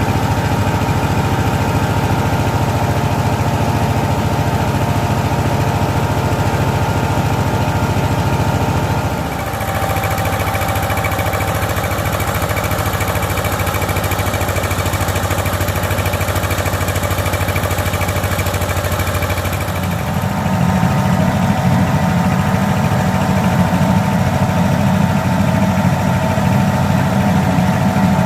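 Diesel engine of a mobile rice milling machine running steadily. Its sound changes abruptly about a third of the way in and again about two-thirds of the way in, where a stronger low hum sets in.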